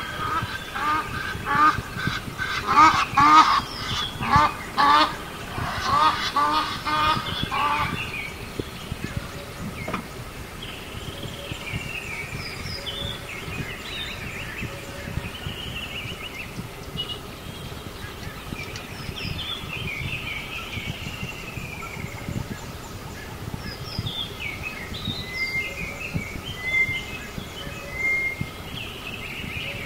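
Birds calling: a run of loud, repeated honking calls for the first several seconds, then scattered chirps of smaller birds over a steady outdoor background.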